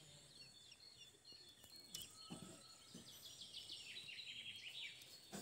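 Faint outdoor bird calls: repeated runs of short, quick high chirps, with a few soft taps, the loudest about two seconds in.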